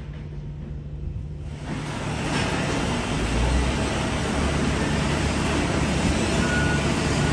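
A vehicle engine hums steadily at a low idle. About two seconds in, a louder steady rushing noise with a deeper engine rumble comes in and holds.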